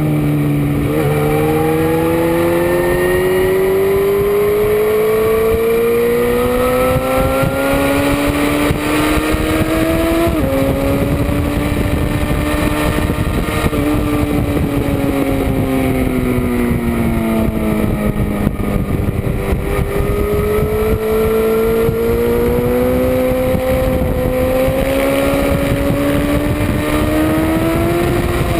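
Motorcycle engine at racing speed on a track, pitch climbing steadily under throttle for about ten seconds, jumping up abruptly at a gear change, then sagging and climbing again near the end, with wind noise over the bike.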